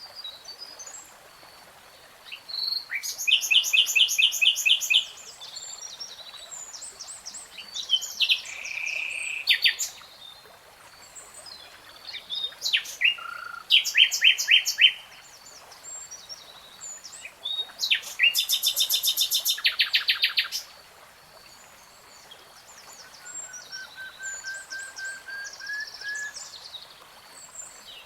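A songbird singing in separate phrases of fast repeated notes and trills, with short pauses between phrases. Near the end a softer series of lower whistled notes comes in.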